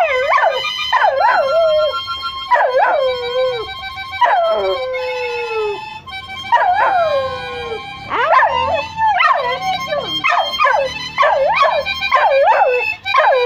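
Pet dog howling along to music, its 'singing': a series of pitched howls that each rise briefly and then fall. A few long howls come first, then from about halfway a quick run of shorter ones, about two a second, over steady held music notes.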